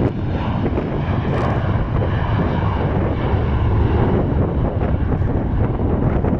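Embraer E175 regional jet's twin CF34 turbofans running at takeoff power during a departure, a loud steady jet noise with faint whining tones above it. Wind buffets the microphone with a low rumble underneath.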